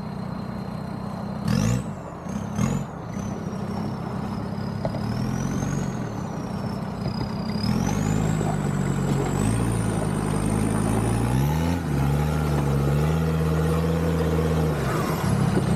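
An off-road 4x4's diesel engine running and revving, its pitch stepping up and down as it works along a muddy lane, with a high whine that rises and falls alongside it. Two short knocks sound a couple of seconds in.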